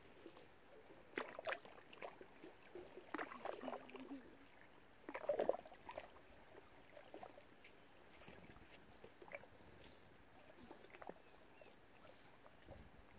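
Water splashing and lapping in short, irregular bursts, the loudest about five seconds in, over a faint steady background.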